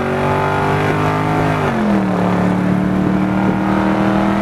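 Car engine under hard acceleration, its pitch climbing and then dropping about a second and a half in as it shifts up a gear before pulling on again.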